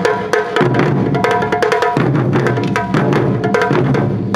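Ensemble of Japanese taiko drums (wadaiko) playing a fast, driving rhythm: dense, rapid drum strikes.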